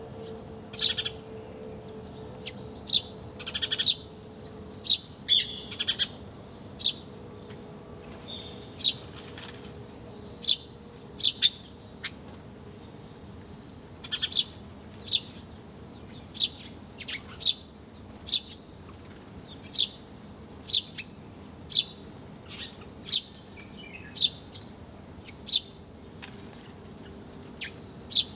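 Small songbirds chirping: short, sharp, high calls repeating about once a second, some in quick pairs.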